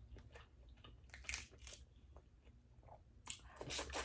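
Close-miked eating sounds of a crawfish and mussel boil: quick bites and crunches in two short clusters, about a second in and again near the end.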